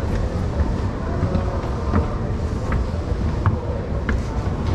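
Steady low rumble of a train in the station, with scattered light clicks and knocks.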